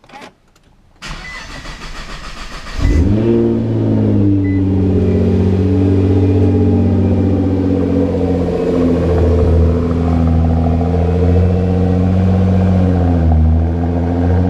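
A click, then a 2011 Nissan GT-R's twin-turbo V6 cranking on the starter for about two seconds, running on E85 through an HKS Legamax exhaust. It catches about three seconds in with a brief flare in revs, then settles into a steady cold-start idle that dips briefly near the end.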